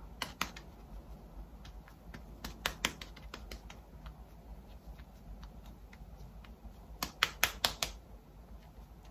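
Light, sharp taps in quick clusters of a few at a time, the sound of BB cream being patted into the skin to blend it. The longest run, about five quick taps, comes near the end.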